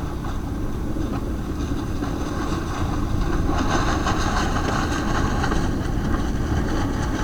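Steady low rumble of strong wind buffeting the tent and microphone, with salmon frying in oil in a pan on a propane camp stove beneath it.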